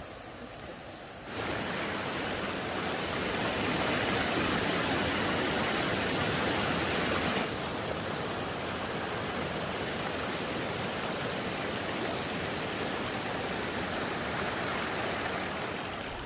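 Mountain valley stream rushing over rocks, a steady spread of water noise. It jumps suddenly louder about a second in and shifts again about seven seconds in, as at cuts between shots.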